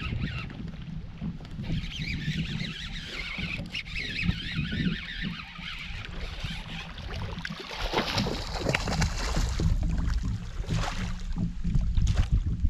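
Wind buffeting the microphone in a low, uneven rumble, with a higher hiss partway through and a run of sharp clicks and splashy noises in the second half.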